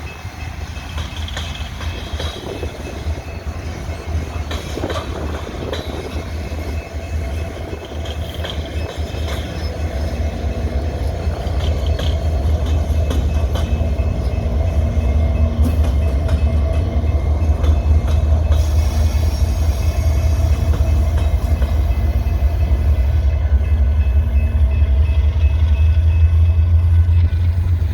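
Diesel-hauled loaded coal train rolling past, a heavy low rumble with a steady engine drone that grows louder over the first half and then holds.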